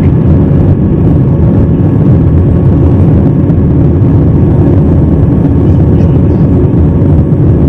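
Jet airliner engines heard from inside the cabin as a loud, steady low rumble with a faint steady whine above it.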